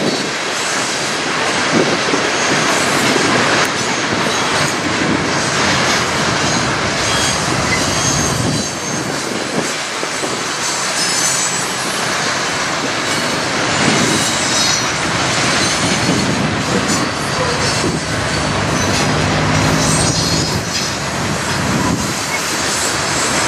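Loaded coal hopper cars of a freight train rolling past in a steady stream, their wheels clattering over the rails, with high wheel squeal now and then. Wind buffets the microphone.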